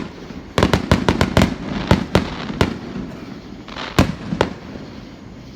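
Fireworks going off in a string of sharp bangs. A quick run of about eight comes about half a second in, then single bangs follow more sparsely, the last loud one about four seconds in.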